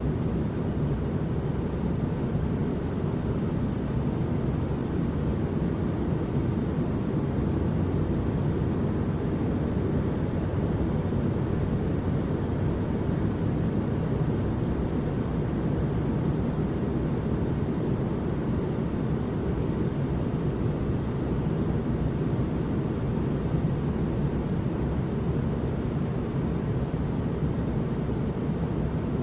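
Steady white noise for lulling a baby to sleep, weighted toward the low end so that it comes across as an even, deep rumble without any changes.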